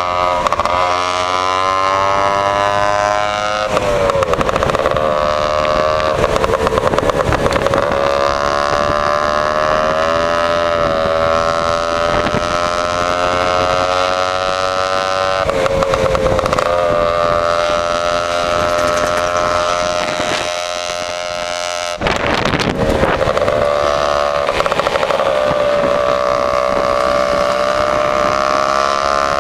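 Lambretta scooter's two-stroke engine through an AF reverse-cone exhaust, accelerating up through the gears. The pitch climbs steadily, drops back at each gear change a few times, then climbs again.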